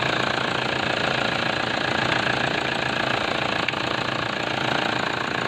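First-generation Toyota Fortuner's engine running steadily with a fast, even pulsing, now starting again after the no-start fault was cured by soldering the poorly joined AM1 connection.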